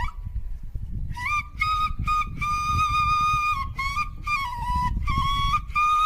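Solo flute playing a melody of held high notes joined by short slides, coming in after a brief pause about a second in, with a low rumble underneath.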